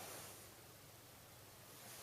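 Near silence: room tone with a faint steady hiss and low hum, and a soft brief rustle at the start and another near the end.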